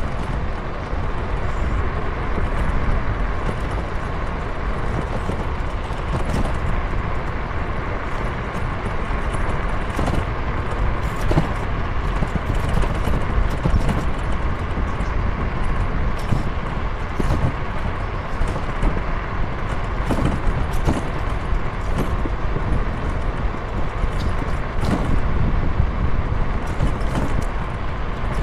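Steady low rumble of road and wind noise during a ride, with a constant hum and frequent small ticks and clicks.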